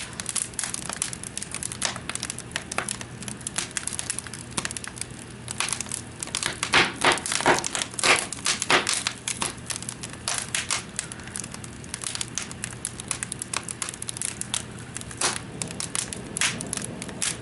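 Wood fire crackling in a fireplace: irregular pops and snaps from burning logs, busiest about six to nine seconds in.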